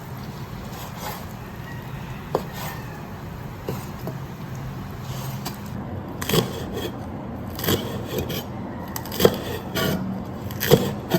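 Kitchen handling sounds: scattered knocks, taps and scrapes of utensils and cookware, more frequent in the second half, over a steady low hum.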